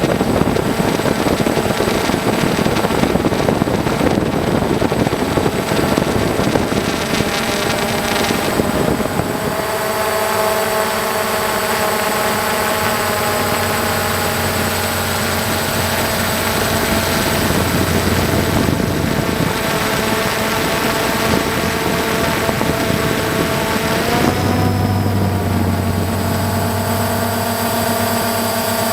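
An engine running steadily, rough and noisy at first and then settling into a steady hum, with a short shift in pitch late on.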